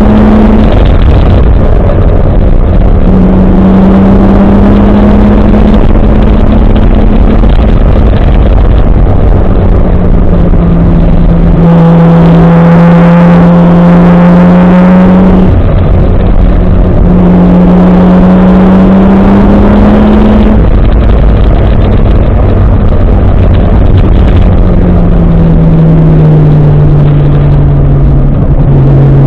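Nissan 1JZ-GTE turbocharged straight-six engine in a 240SX pulling hard up a mountain road, loud throughout. Its pitch climbs slowly and drops back several times as the car goes through the gears.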